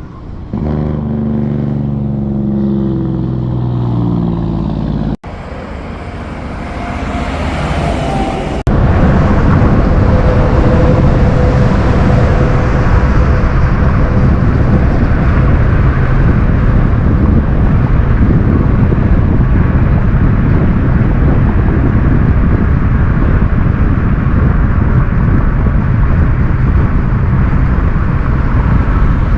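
Big-rig diesel trucks running loud, in three clips joined by abrupt cuts: first an engine with a clear pitch that shifts up and down, then a brief rougher rumble, then a loud, steady exhaust rumble for the last twenty seconds.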